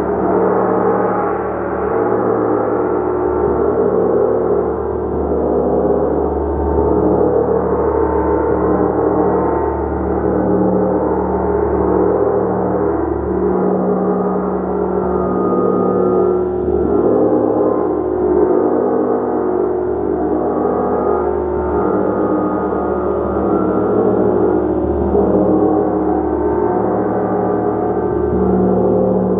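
Gong played continuously, building a steady, dense wash of many overlapping tones that pulse and swell gently, with no single strike standing out.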